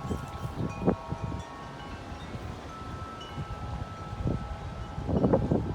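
Tubular wind chimes ringing in strong gusty wind, several tones sounding together, with wind buffeting the microphone. The gusts ease in the middle and pick up again about five seconds in.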